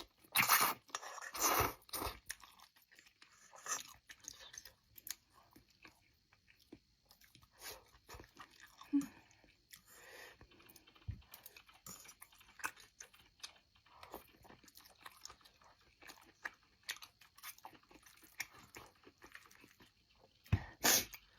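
Close-up chewing and crunching of food in the mouth, with loud bites in the first two seconds, then softer scattered chewing clicks and one loud burst near the end.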